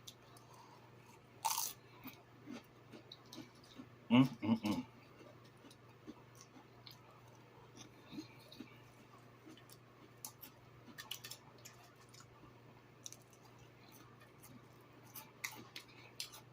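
Close-up chewing and crunching of a person eating, with small wet mouth clicks, a sharp crunch about one and a half seconds in, and a short voiced sound from the eater around four seconds in.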